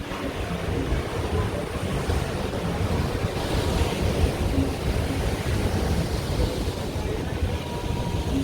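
Pacific surf washing onto the shore, with wind buffeting the microphone. A wave's wash swells about three seconds in and eases off toward the end.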